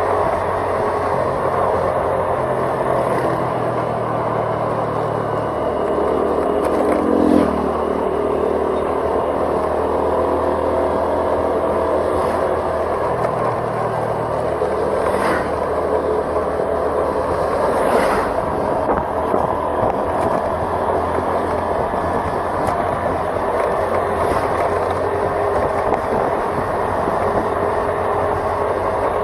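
A vehicle driving along a road, its engine running steadily under road and wind noise. About seven seconds in the engine pitch rises briefly and then drops back, and there are a couple of short knocks later on.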